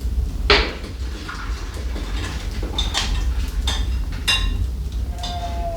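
Kitchen ware being handled: dishes and utensils knocking and clinking several times, some strikes ringing briefly, over a steady low rumble.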